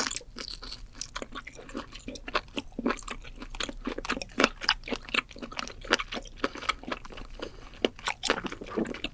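A person chewing a mouthful of octopus: irregular wet smacking and crunching clicks, several a second.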